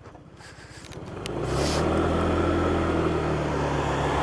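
Motorcycle engine ticking over with low pulses, then about a second in the revs rise and it settles into a steady low engine note as the bike pulls away, with air rushing over the helmet microphone.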